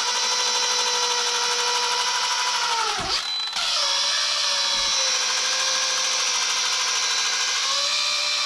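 Small 4-inch cordless rotary polisher running steadily with a steady motor whine as it buffs plastic. Its pitch dips briefly about three seconds in, then recovers.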